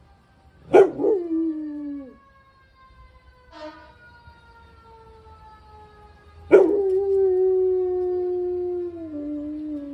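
Red-nose pit bull howling along with a fire engine siren: a short howl about a second in that slides down in pitch, then a long howl from about six and a half seconds in that steps down in pitch. The siren wails faintly behind, slowly falling in pitch.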